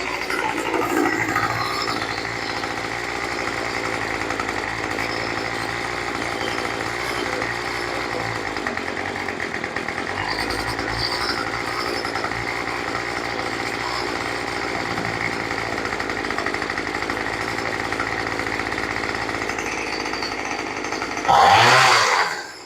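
Small gasoline engine of a rototiller running steadily on a rebuilt carburetor, its idle set slightly off. Near the end there is a much louder burst lasting about a second, then the sound falls away sharply.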